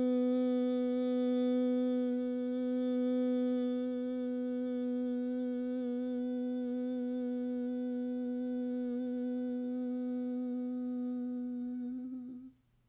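A single hummed vocal note held steadily at one pitch, as sound-healing toning, fading out near the end.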